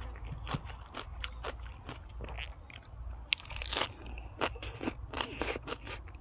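A person chewing crisp food close to the microphone: a steady run of short, sharp crunches, several a second.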